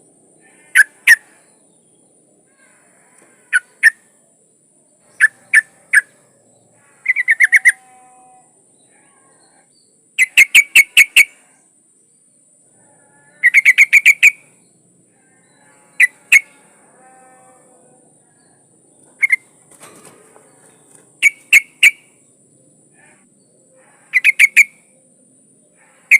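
Yellow-vented bulbul (trucukan) calling: short, sharp chirping notes in quick clusters of two to seven, repeated every two to three seconds. Presented as a female calling for males.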